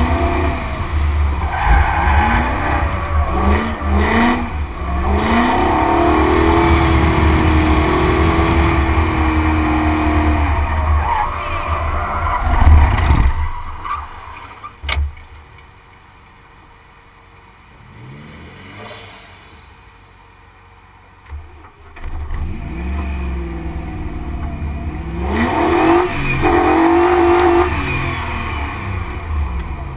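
Drift car's engine revving hard, its pitch rising and falling as it is worked through the corners, over a heavy rumble of wind on the outside of the car. About halfway it drops back to a low, quiet run for several seconds, then the revs climb and fall again near the end.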